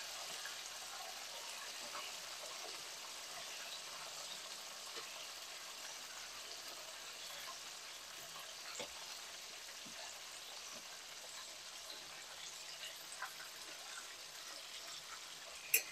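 Chicken frying in hot oil: a steady sizzle with scattered small pops, and one sharp click near the end.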